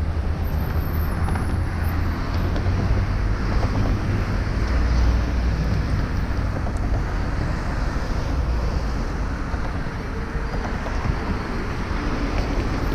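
Wind rumbling steadily on the microphone of a moving bicycle, over city street traffic noise.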